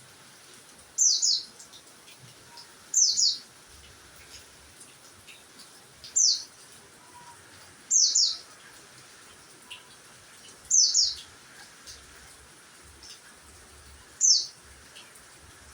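A small songbird calling: a short, high, falling chirp repeated six times, every two to three seconds.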